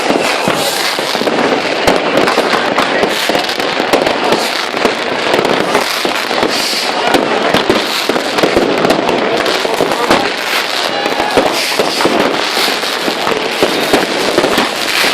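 Dense New Year's Eve fireworks and firecrackers going off without a break, a steady clatter of many bangs and crackles overlapping, with people's voices mixed in.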